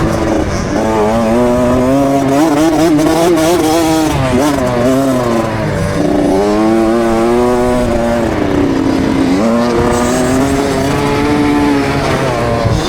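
KTM 65 SX two-stroke motocross bike engine revving hard under load, its pitch climbing and then dropping sharply several times as the throttle is rolled on and off.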